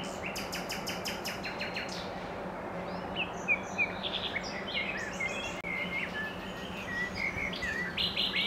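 Songbirds chirping and singing: a rapid run of repeated notes for the first two seconds, then scattered short whistled chirps, over a steady low hum.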